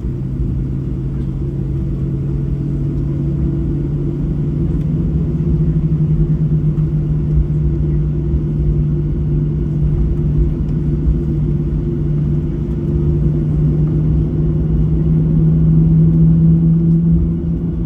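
Boeing 737-700's CFM56 jet engines running, heard inside the passenger cabin as a steady low drone. Its hum rises slightly in pitch and loudness a few seconds in and again near the end.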